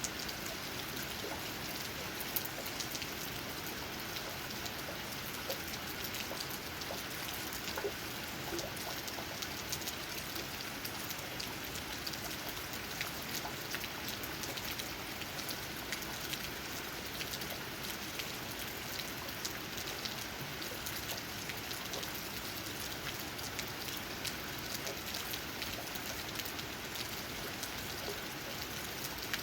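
Steady rain with many small, scattered drop ticks, raindrops pattering on leaves.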